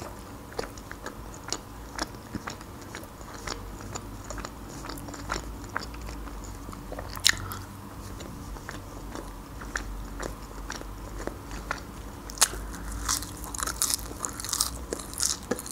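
Close-miked chewing and biting of crisp lahmacun, the thin Turkish meat flatbread, with many small crunchy clicks. From about twelve seconds in the crunching gets louder and denser as fresh parsley sprigs are bitten and chewed.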